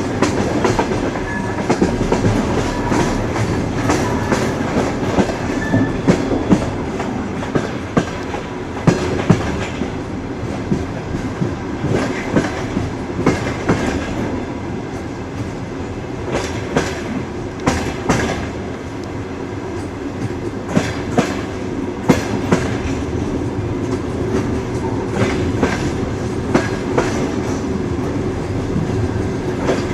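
A moving train's wheels running on the rails: a steady rumble with frequent, irregular clicks and knocks as the wheels pass over the track.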